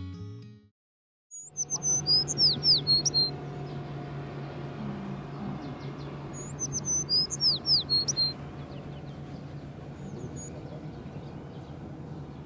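A songbird singing the same short phrase of high, falling chirps twice, about five seconds apart, with a faint short call later, over a steady low hum.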